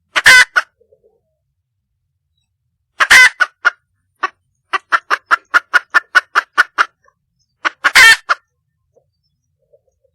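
Wild junglefowl hen calling for a mate: three loud, harsh calls a few seconds apart, with a quick run of short clucks, about five a second, between the second and the third.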